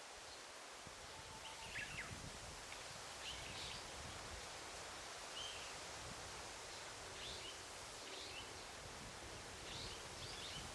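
Faint forest ambience: a steady rustling hiss with short, high bird chirps every second or two.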